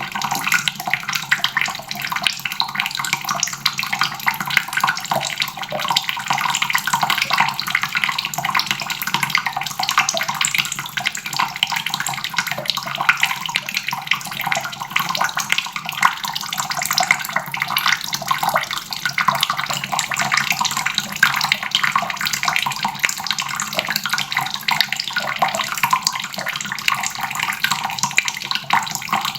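Water faucet running in a steady stream, splashing continuously into a basin.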